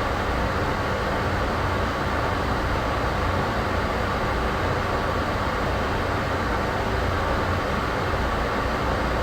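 Steady ambient noise, a constant rumbling hiss heaviest in the low end, with a faint steady hum on top and no change throughout.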